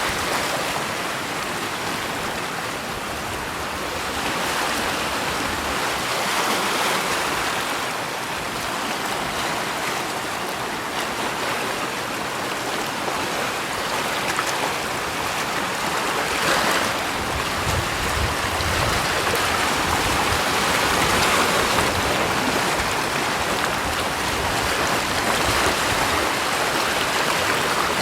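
Steady rushing water, its level swelling and easing gently every few seconds.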